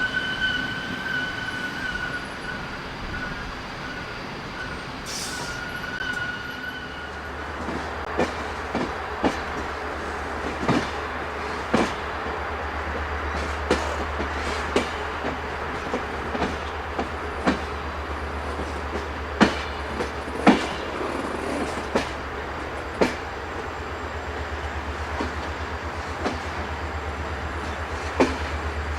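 Train wheels squealing on the rails in a thin high tone that fades out over the first few seconds. Then a low rumble sets in, broken by irregular sharp knocks as the wheels pass over rail joints.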